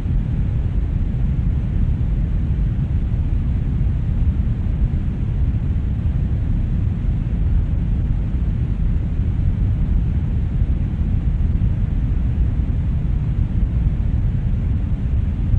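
Steady brown noise: an even, deep hiss, strongest in the bass and fading toward the treble, with no change in level.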